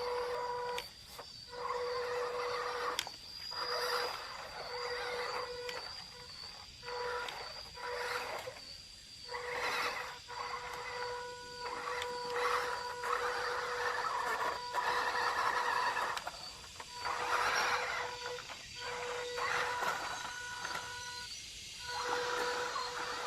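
Electric motor and gearbox of an RC scale pickup truck whirring in repeated bursts of throttle, each a second or two long. A steady high-pitched electronic whine runs underneath with brief gaps.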